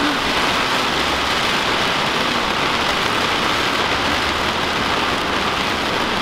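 Heavy rain pouring down, a steady, loud hiss with no let-up.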